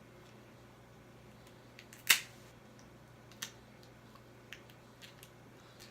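Crab leg shells cracking and snapping apart: one loud sharp crack about two seconds in, then a few smaller clicks.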